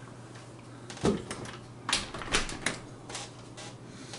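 A handful of sharp, irregular clicks and light knocks, about five of them between one and three seconds in, over a faint steady low hum.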